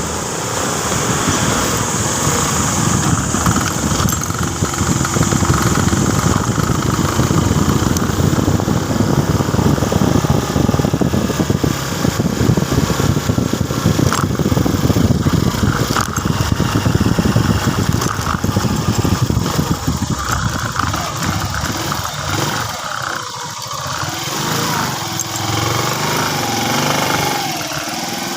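Motorcycle running while being ridden, with a dense low rumble of engine and road noise. It gets quieter over the last few seconds.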